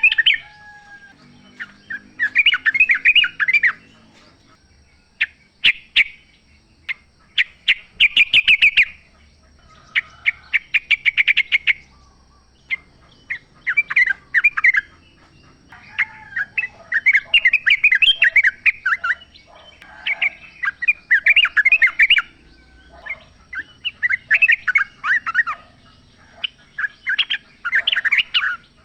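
Yellow-vented bulbuls (trucukan) calling in the wild, with short bursts of rapid, bubbling chattering notes repeated every second or two. A few sharp clicks come about a third of the way through.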